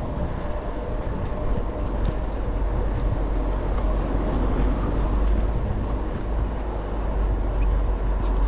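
Steady wind rumble on the microphone with road and tyre noise, from riding an e-bike.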